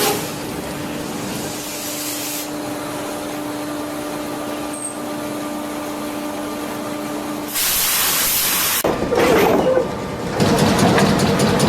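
Heavy machinery running: a steady hum with a faint held tone and hiss, which switches abruptly to a loud hiss about seven and a half seconds in, then to louder machine noise with a fast even beat near the end.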